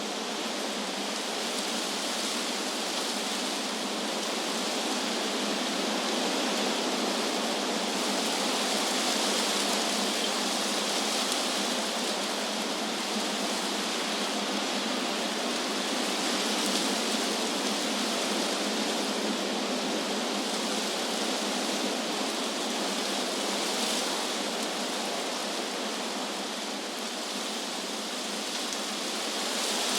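Wind rushing through tree leaves: a steady, even hiss that swells and eases slowly.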